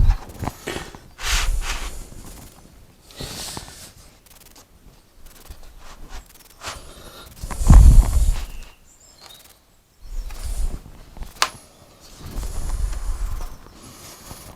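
Wooden door panels being handled and pushed together in a test fit: irregular knocks and scrapes, with a loud thump about eight seconds in and a sharp click a few seconds later.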